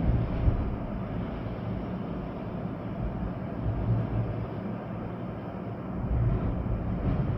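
Storm wind and rain blowing through swaying trees, a steady rushing noise with a low rumble that swells and eases in gusts.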